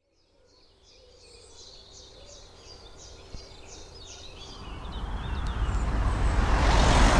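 Wild bird singing a series of quick repeated high notes, about three a second, then a short twitter. From about halfway through, a rush of noise swells steadily until it is loud at the end.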